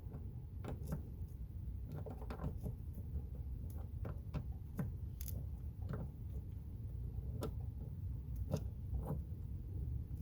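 Scattered light metallic clicks and clinks of hand tools and terminal hardware being handled, at irregular intervals over a steady low outdoor rumble.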